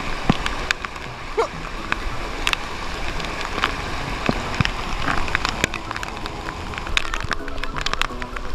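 Floodwater rushing through a lake spillway: a steady rush of water, with many scattered sharp clicks and taps on top.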